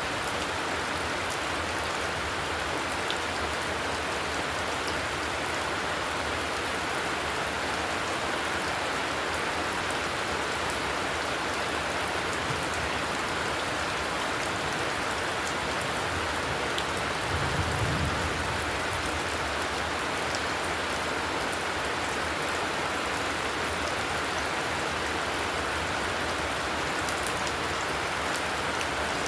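Heavy rain falling steadily. A brief low rumble swells up about two-thirds of the way through.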